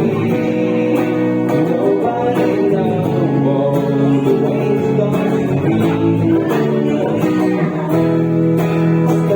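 Music led by strummed acoustic guitar, with held notes over a regular strumming pulse.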